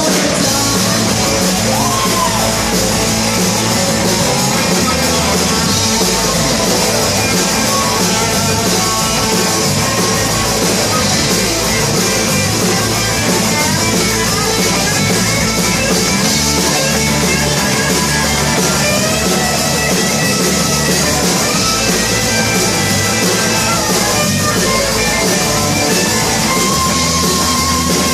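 Rock and roll band playing live: electric guitar, bass and drum kit at a steady loud level.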